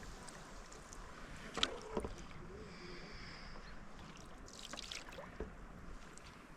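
Paddle strokes dipping and splashing in river water, with two sharper splashes around one and a half to two seconds in and a softer swish near five seconds, over a steady low hiss.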